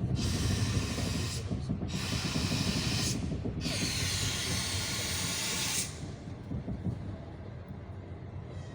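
Cast-iron brake shoes of a passenger railcar hissing against the wheels as the train brakes, in three long hisses over the rumble of the wheels on the rails. The hissing stops about six seconds in, leaving a quieter rumble.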